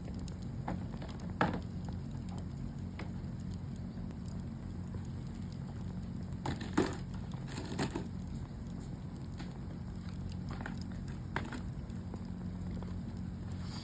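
Charcoal burning in a shichirin, crackling with scattered sharp pops over a steady low hum; the loudest pops come about a second and a half in and around seven to eight seconds in.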